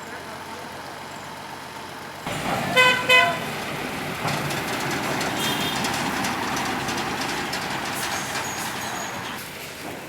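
A vehicle horn sounds two short toots about three seconds in, over the steady running of a heavy vehicle's engine.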